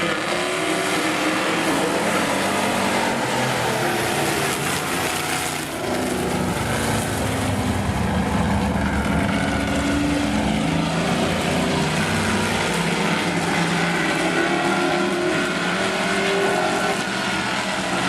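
Several demo race cars running laps on an oval track, their engines revving and easing off in overlapping, shifting pitches.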